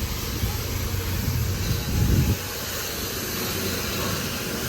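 Self-service car wash high-pressure wand spraying: a steady hiss over an uneven low rumble, with a louder rumble about two seconds in.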